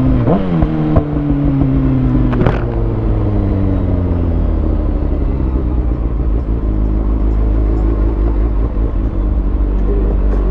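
Kawasaki Ninja ZX-6R's inline-four through a Lextek SP7C carbon exhaust with decat headers, blipping up briefly near the start, then the engine note falling slowly as the revs drop. A sharp click about two and a half seconds in.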